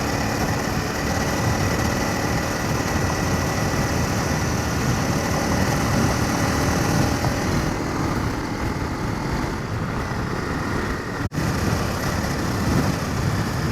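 Honda CRF250 Rally's single-cylinder engine running steadily while riding a sandy gravel road, mixed with heavy wind and road noise. The sound cuts out for an instant about eleven seconds in.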